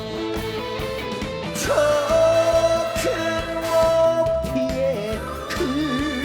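Live trot band music between sung lines: a lead line holds one long note for about three seconds over the band's steady accompaniment, then a wavering note comes in near the end.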